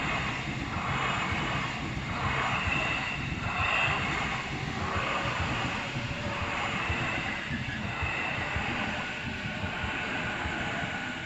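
An Ome Line electric train passing over a level crossing: a steady rumble with a regular beat about once a second from the wheels. The crossing's warning bell rings throughout.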